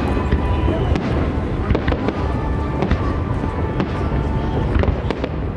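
Aerial fireworks bursting in quick, irregular succession: sharp bangs and crackles over a constant low rumble, with music playing under them.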